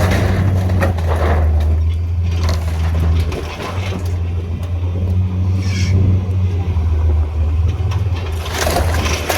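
A heavy machine's engine running steadily under load while barn timbers crunch, crack and scrape as the structure is torn down.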